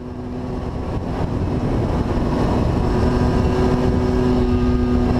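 Motorcycle riding at speed: wind rushing and buffeting over the microphone, building over the first couple of seconds and then staying loud, with a steady engine drone underneath.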